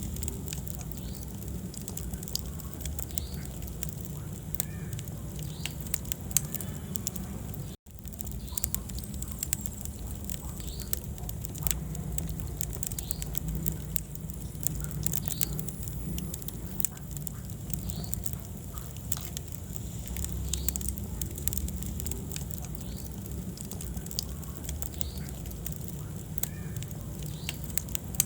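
Wood fire burning in a fireplace: irregular sharp crackles and pops over a steady low rumble of flame, with a momentary gap in the sound about eight seconds in.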